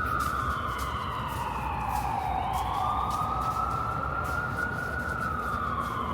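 An emergency vehicle's siren on a slow wail: its pitch falls, climbs back up and holds, then starts falling again near the end. A steady low rumble of street traffic runs underneath.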